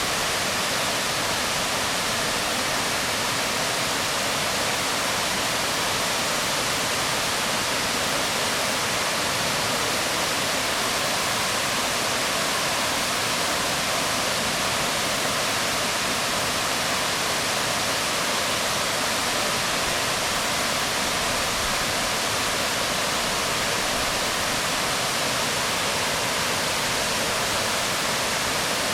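Waterfall splashing onto rocks: a steady, even rush of falling water with no change in level.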